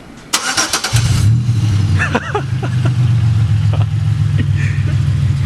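Pontiac Grand Am's V6 being cranked by its starter for about a second, then catching and settling into a steady idle through an exhaust with the rear section removed and the catalytic converter still in place.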